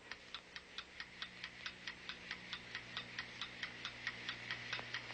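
Clock ticking steadily, about four ticks a second, growing gradually louder over a faint hum.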